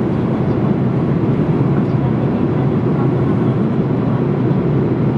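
Steady engine and airflow noise inside the passenger cabin of a Boeing 787-8 Dreamliner, an even low rumble-and-hiss with no changes.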